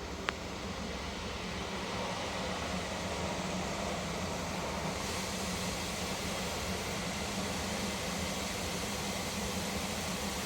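Steady rushing noise of an automatic car wash heard from inside the car, over a low steady hum, with one short click about a third of a second in.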